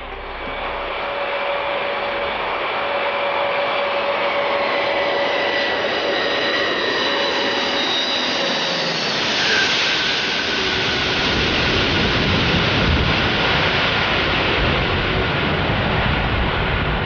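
Jet engines of the Antonov An-225, a six-turbofan aircraft, as it flies past. High whining tones slowly fall in pitch as it approaches, the sound is loudest about ten seconds in as it passes, and a deep rumble follows as it moves away.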